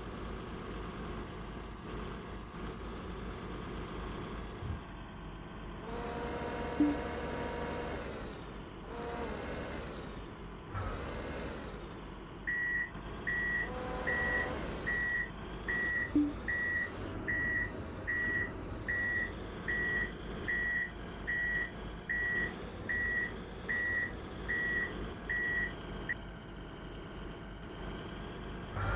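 Dump truck engine running, revving up and down a few times, then its reversing alarm beeping steadily, about five beeps every four seconds, for roughly a quarter of a minute before it stops.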